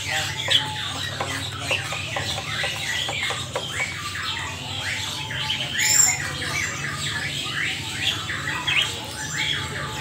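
Caged birds chirping and squawking in many quick, overlapping calls, over a steady low hum. A sharp click about six seconds in.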